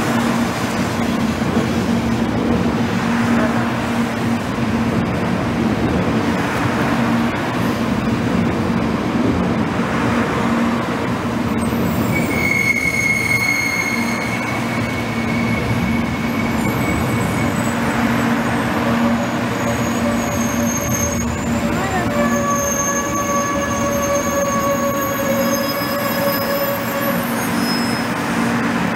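300 Series Shinkansen train rolling slowly past, a steady rumble of its cars on the rails. About twelve seconds in, high squealing tones set in and change pitch from time to time, typical of wheel squeal at slow speed.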